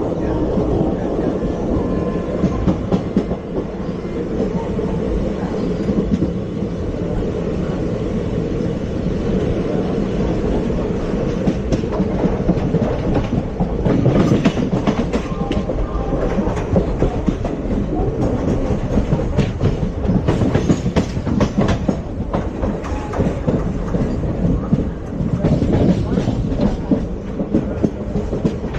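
ICF passenger coach running along the track, a steady rumble with wheels clicking and clattering over rail joints.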